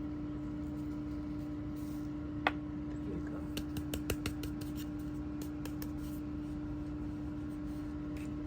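Air conditioner running with a steady hum, with a few light taps and clicks over it, the sharpest about two and a half seconds in.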